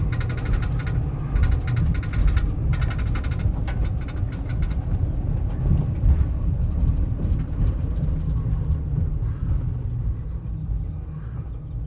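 Cab of a 2016 Ram 5500 truck on the move: low rumble of its 6.4-litre gasoline Hemi V8 and road noise, with something loose rattling in the steel console for the first few seconds. The rumble eases off gradually toward the end.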